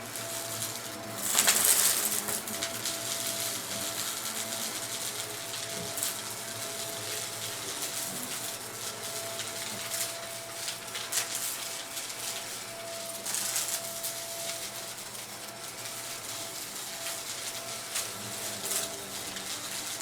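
Vacuum cleaner running with a steady motor whine while hard debris such as coins and small rocks clicks and rattles up through it, with a louder rush of clatter about two seconds in.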